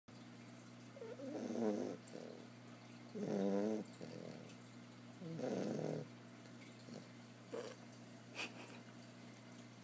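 Bulldog puppy snoring loud in her sleep: three long snores about two seconds apart, then two shorter, fainter ones near the end.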